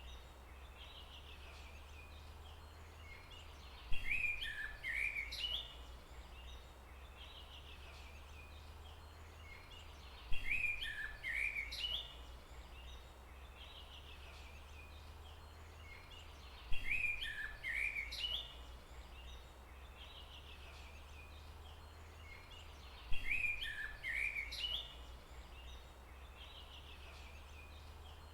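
Forest ambience: a songbird's short chirping phrase, sung four times at even intervals of about six seconds, the same phrase each time, over a steady low rumble.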